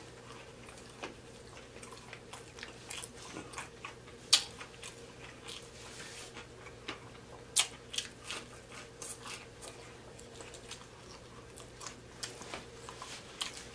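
A person chewing and smacking his lips close to the microphone while eating fried food. It comes as a run of irregular wet clicks, with a couple of louder smacks about four and seven and a half seconds in.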